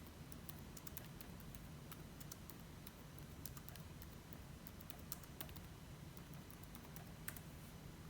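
Faint, irregular clicks of typing on a computer keyboard, a few keystrokes at a time with short pauses, over a low steady hum.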